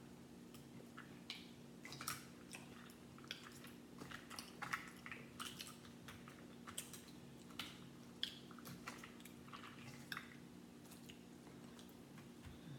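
A person chewing a mouthful of food close to the microphone, with scattered short wet clicks and smacks of the mouth, over a faint steady hum.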